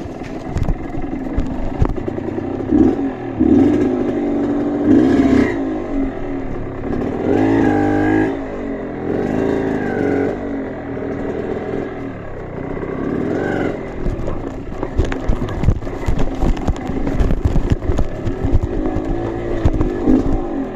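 Off-road trail motorcycle engine revving up and dropping back again and again. Sharp clattering knocks fill the last third.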